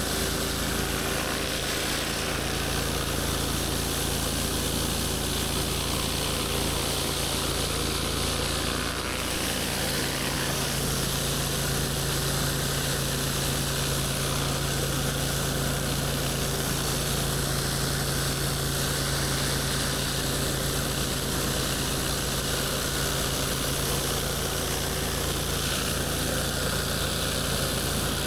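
Gas engine of a pressure washer running steadily, with the hiss of high-pressure water spray over a steady engine hum.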